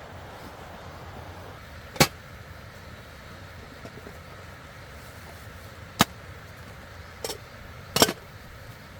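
Steady rushing of a stream, with four sharp knocks over it: one about two seconds in, one about six seconds in, and two close together near the end.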